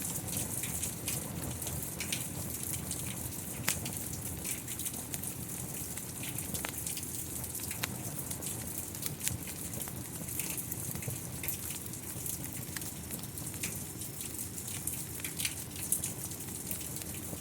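Steady rain falling, with scattered sharp crackles and pops of a wood fire over it.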